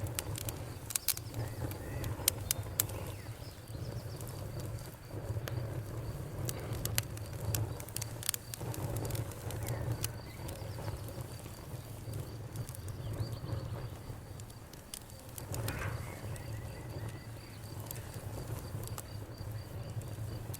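Wood fire burning in a fireplace: a steady low rumble of flames with frequent sharp crackles and pops, bunched in places.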